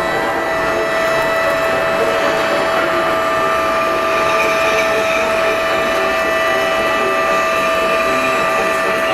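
Several ship's horns and sirens sounding at once in long, held tones at different pitches, over a dense background of noise. They are the salute that greets a newly launched ship.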